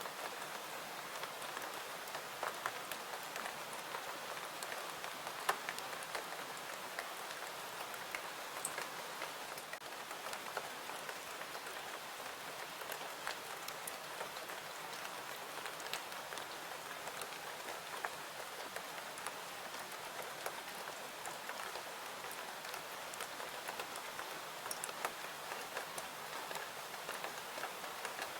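Steady rain hiss, with scattered sharp crackles and pops from a wood fire throughout.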